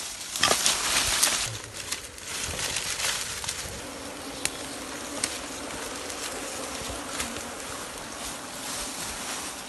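Wild honeybees buzzing steadily around their nest in a tree hollow, the hum settling in clearly from about four seconds in. A louder rustling noise comes in the first second or two.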